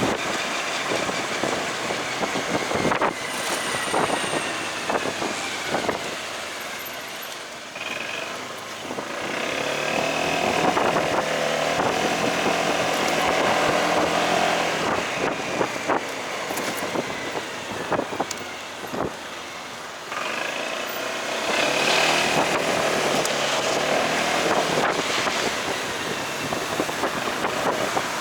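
Delivery motorcycle being ridden through traffic, its engine pitch falling and rising as it slows and speeds up, over steady road and wind noise.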